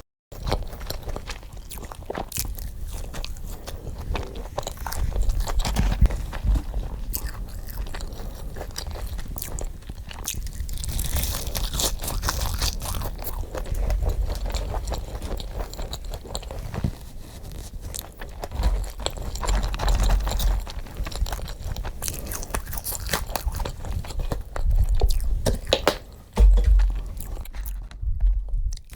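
Close-miked mukbang eating: crunchy bites and chewing of food, played sped up. The sound drops out briefly at the very start and just before the end.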